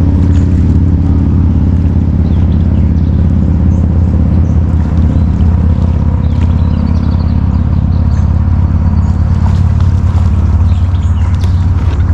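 A loud, steady low rumble with faint bird chirps now and then.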